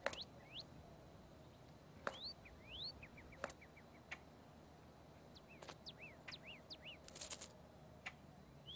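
Green jay calling faintly: scattered short rising whistled notes, quick clicks and a fast run of chips, with two harsh rasping calls near the end.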